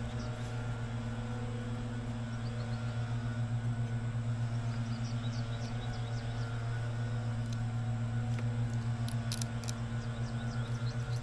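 A motor running steadily, a low hum with a fast pulsing beat, with faint short high chirps over it and a few brief clicks near the end.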